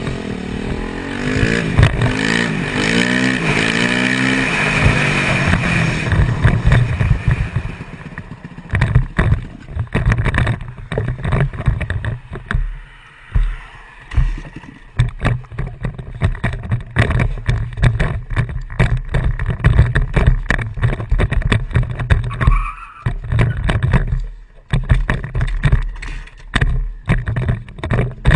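A motor vehicle running at speed, its engine note rising and falling for the first several seconds. From about eight seconds in, wind buffets the microphone in rapid, irregular gusts over the engine.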